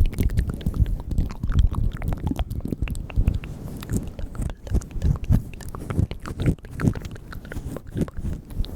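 Close-miked ASMR mouth sounds: rapid, irregular wet clicks and smacks of the lips and tongue.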